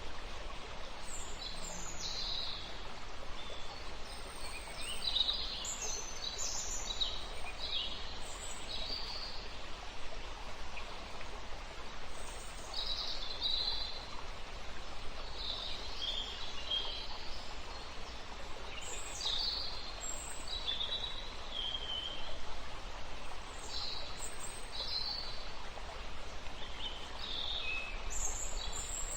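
Birds chirping and calling in short, scattered phrases over a steady outdoor background hiss.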